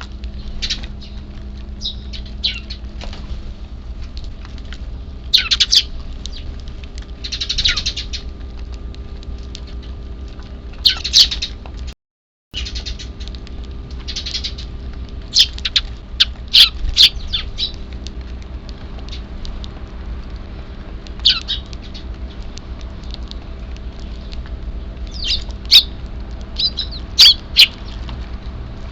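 Eurasian tree sparrows chirping: short, sharp high calls in scattered clusters, some in quick runs of several, over a faint steady hum. The sound cuts out completely for half a second near the middle.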